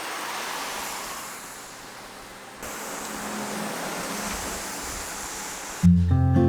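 Steady rushing outdoor noise that changes at a cut about two and a half seconds in. Acoustic guitar music starts near the end.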